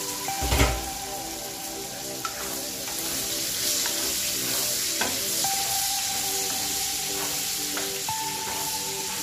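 Diced pork frying in hot oil in a wok, sizzling steadily while it is stirred with a wooden spatula as it browns. A single loud thump comes about half a second in.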